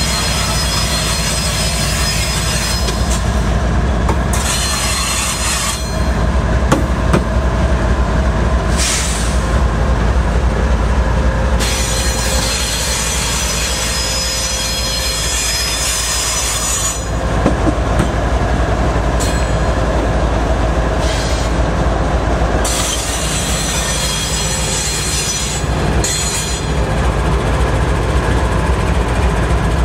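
CN freight train going by: diesel locomotive engine rumble and steel wheels squealing against the rail in thin high steady tones, with double-stack intermodal cars rolling past.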